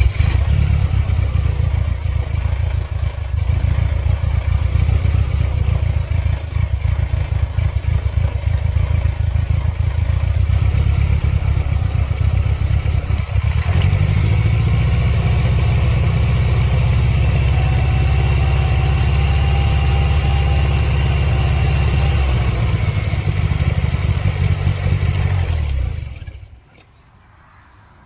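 Supercharged 2.3-litre four-cylinder engine of a 1999 Mercedes-Benz C230 Kompressor, just started and running unevenly. Its note changes about halfway through, and it stops abruptly near the end. The car has a flashing check engine light, a sign of misfiring.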